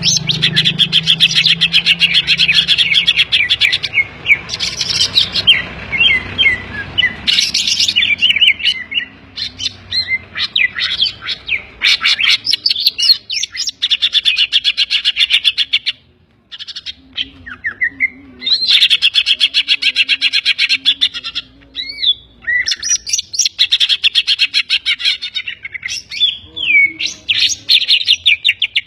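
Greater green leafbird (cucak ijo) in full song: long bursts of rapid chattering trills and whistled slurs, broken by a short pause about sixteen seconds in. The song is filled with mimicked calls of other birds, the kapas tembak and the kingfisher (tengkek).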